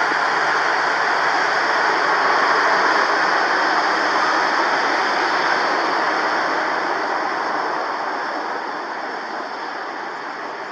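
Jet airliner's engines making a loud, steady roar that slowly fades toward the end as the aircraft moves away.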